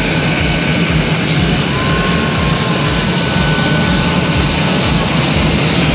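Aircraft engines running, a steady loud drone with a thin high whine.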